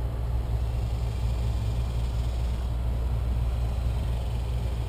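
A steady low rumbling hum, even in level throughout, with no distinct knocks or tool sounds.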